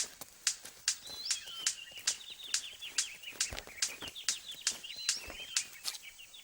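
Male superb bird of paradise courtship display: sharp clicks at an even pace of about two and a half a second, joined about a second in by a fast, high chattering call.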